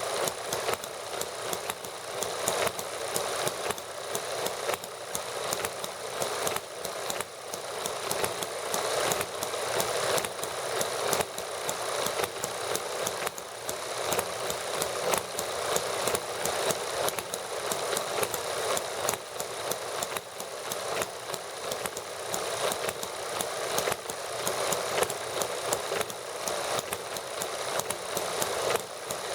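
Several small model gasoline engines running together, a fast, steady clatter of firing clicks with little low rumble.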